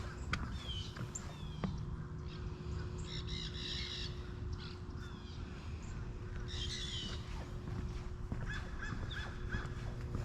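Wild birds calling: scattered chirps and short notes, with two louder harsh, crow-like caws a few seconds apart and a quick run of short notes near the end, over a faint steady low hum.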